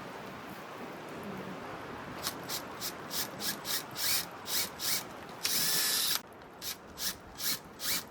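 Rhythmic rubbing strokes on wood, about three a second, with one longer continuous stroke a little past the middle, typical of hand-working timber such as sanding or sawing. A steady hiss of wind and rain fills the first two seconds.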